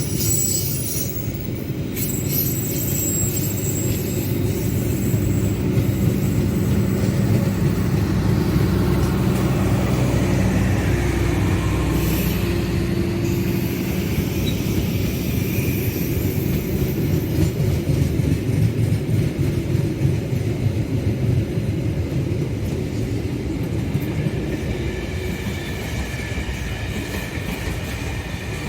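A train passing close by: a continuous heavy rumble of engine and wheels on the rails, with a thin high wheel squeal toward the end.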